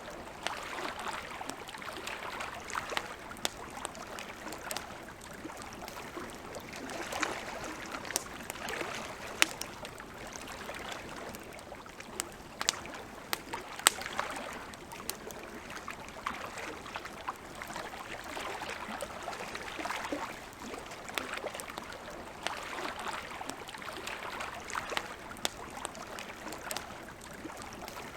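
Wood campfire crackling, with frequent small clicks and occasional sharp pops, over a soft hiss that swells and ebbs every few seconds, like lake water lapping at the shore.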